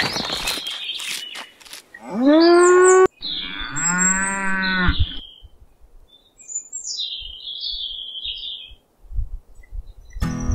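A cow mooing twice, each call a second or so long with a full, pitched tone, the first loudest. A few sharp knocks come just before, and faint bird chirps follow.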